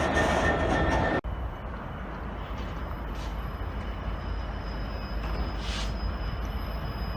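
Train running loudly with steady tones for about a second, then a sudden cut to a quieter, steady low rumble of a train with a couple of short hisses.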